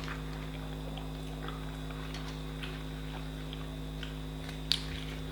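Faint chewing of poori and chhole with small scattered mouth and finger clicks over a steady electrical hum, and one sharper click near the end.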